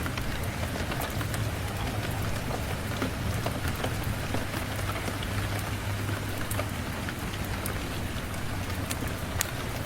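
Steady rain falling, an even hiss with a low rumble underneath and scattered sharp ticks of individual drops or crackles.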